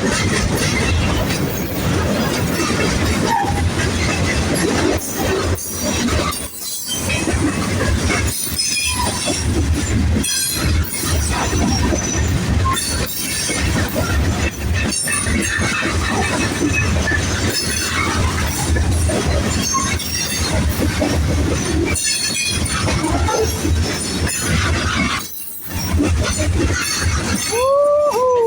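Manifest freight train rolling past close by, a continuous loud rumble and clatter of steel wheels on the rails. In the last second a person whoops.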